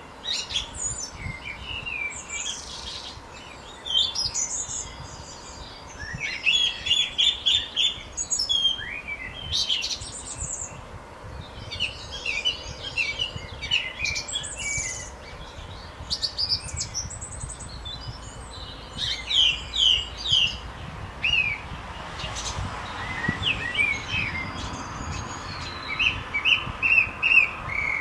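Birds chirping and calling: many short, high-pitched chirps and quick trills in irregular clusters every second or two, over a faint low background hum.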